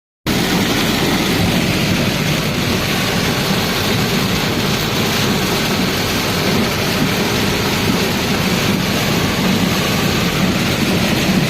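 Heavy rain falling steadily, an even rushing hiss, mixed with the low rumble of a vehicle travelling along the road.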